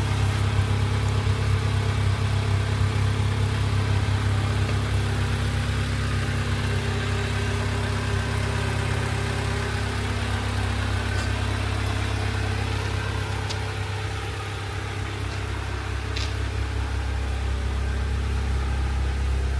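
MG MGF's Rover K-series four-cylinder engine idling steadily through a newly fitted Gravity performance exhaust, a low steady exhaust note that dips slightly in level about three-quarters of the way through.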